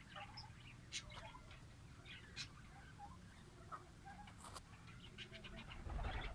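Pet lovebirds giving short, sharp, scattered chirps and squeaks, faint, with a low rumble near the end.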